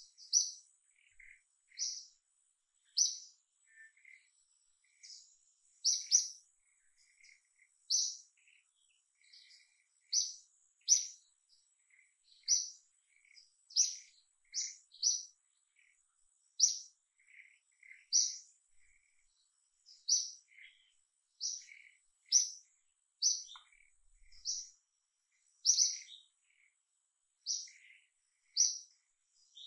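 A bird calling over and over, a short, high chirp about once every second or so, with fainter, lower chirps in between and a faint steady high whine behind.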